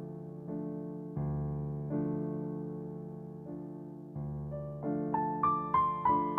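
Background piano music: slow chords struck about once a second and left to fade, with a quick run of higher notes near the end.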